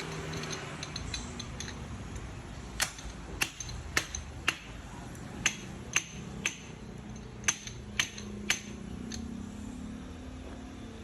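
About ten light, sharp metallic taps, roughly two a second, each with a short ring, in the middle of the stretch. This is a hammer tapping metal parts while a motorcycle front fork is being assembled.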